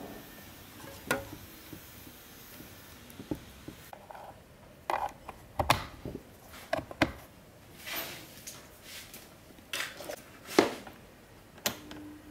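Irregular clicks, taps and knocks of hard fan parts being handled and fitted together, a few a second at most, the loudest a bit after ten seconds in.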